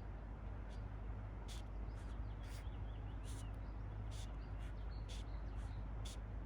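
Outdoor ambience: a steady low rumble with faint bird chirps and short, irregular high scratchy ticks.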